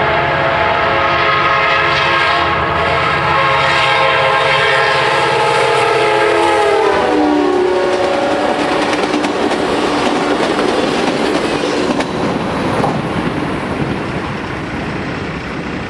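Passenger train's locomotive horn sounding a long blast, its chord dropping in pitch as the locomotive passes, then the passenger cars rushing and clacking by on the rails.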